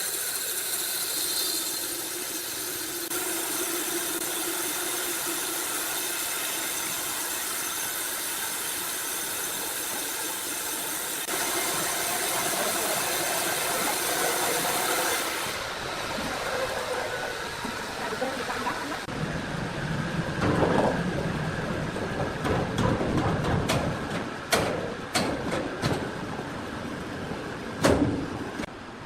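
Sawmill machinery running with a steady hum and hiss. In the second half it gives way to a series of sharp knocks and clatter, louder than the run before.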